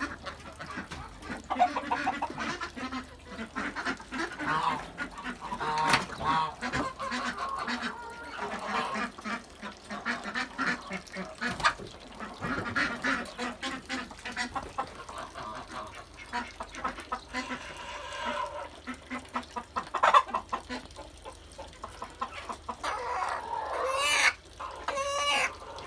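A flock of domestic poultry in a pen calling, many short overlapping calls with scattered sharp clicks, and a louder run of calls near the end.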